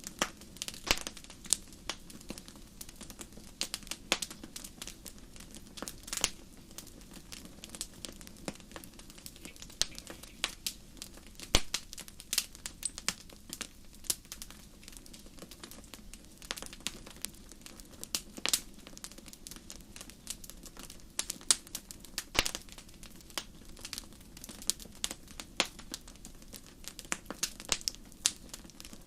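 Wood fire crackling, with irregular sharp pops and snaps over a steady low hiss of the flames.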